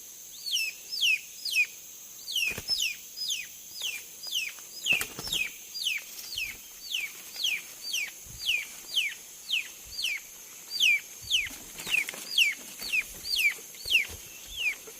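Crested partridge whistling a steady series of short, high, falling notes, about two a second, over a constant high drone of forest insects, with a few soft knocks from handling.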